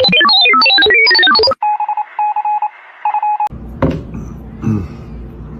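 A fast run of loud electronic beeps, like telephone keypad tones, jumping up and down in pitch, followed by a single-pitch phone-style beep repeating on and off. About three and a half seconds in it cuts off abruptly to quiet room sound with a couple of brief noises.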